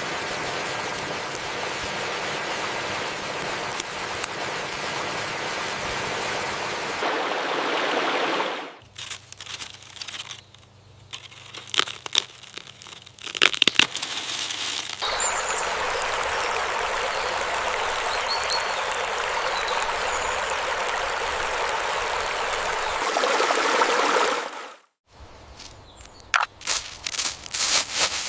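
Steady rush of flowing water, cut off abruptly twice. Between about 9 and 15 seconds in, and again in the last few seconds, it gives way to a quieter stretch of scattered clicks and crackles.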